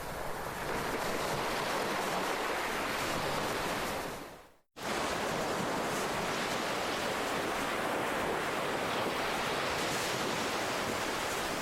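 Ocean waves in a steady rush of surf. About four seconds in the sound fades away to a moment of silence, then cuts straight back in.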